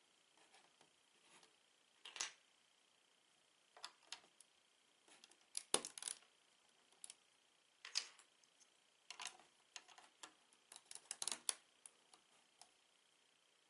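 Plastic Lego bricks clicking and clattering in irregular bursts as pieces are handled and fitted together, with the busiest clusters about halfway through and near the end.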